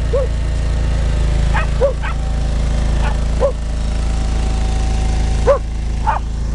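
Dogs barking and yipping in short, separate barks, about half a dozen of them irregularly spaced, the loudest about five and a half seconds in, over a steady low rumble.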